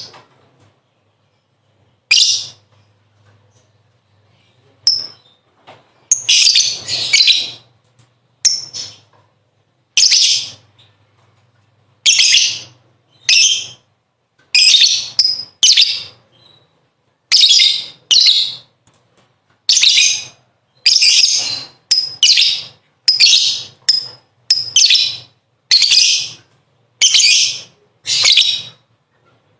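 Lovebird ngekek song: repeated bursts of shrill chattering, each under a second long, with short silent pauses between them. One longer burst comes about a quarter of the way in.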